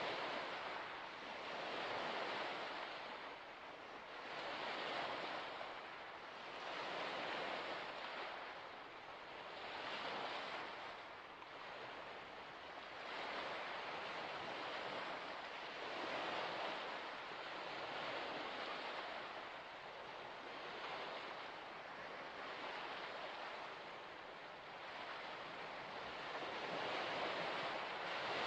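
Waves washing in and breaking in a steady rhythm, each surge rising and falling every two to three seconds.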